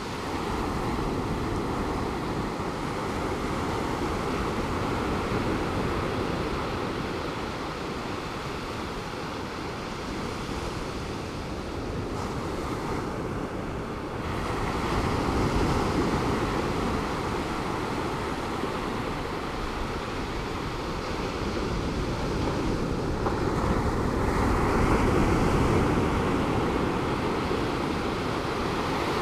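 Pacific Ocean surf breaking and washing on the beach in a continuous roar, swelling louder twice, about halfway through and again near the end, with some wind on the microphone.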